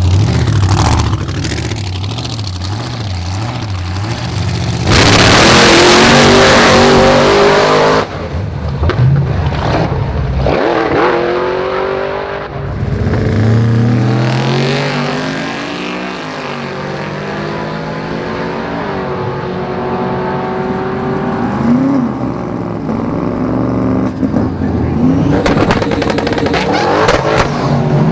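Drag-racing car engines revving and accelerating, their pitch rising and falling. A very loud full-throttle stretch runs from about five to eight seconds in and cuts off abruptly.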